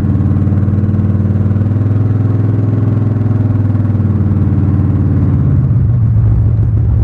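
Car engine idling steadily. Its tone changes about five and a half seconds in.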